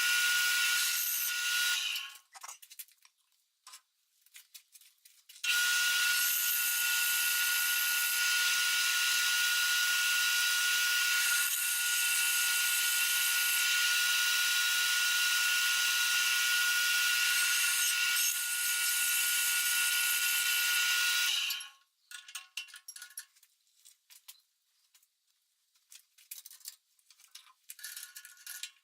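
A power tool running steadily with a whining tone over a loud hiss, briefly for about two seconds, then again for about sixteen seconds before it stops; faint clicks and taps between and after.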